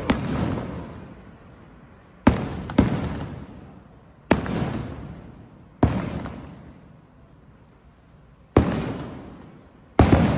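Fireworks going off, about seven sharp bangs one to three seconds apart, each followed by a long fading rumble.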